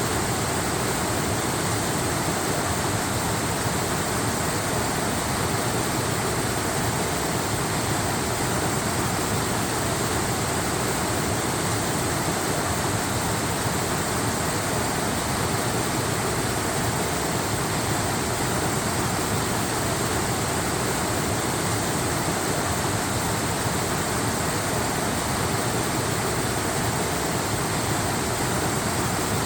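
Steady rushing of a waterfall: an even wash of falling water that holds the same level throughout, with no distinct splashes or other events.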